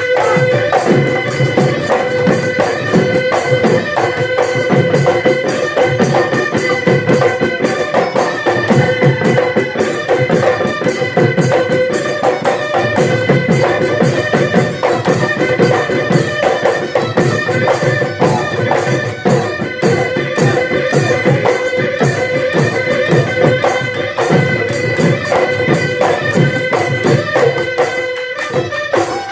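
Bihu folk music: fast, dense hand-drumming, typical of the dhol, under a steady held note that runs throughout.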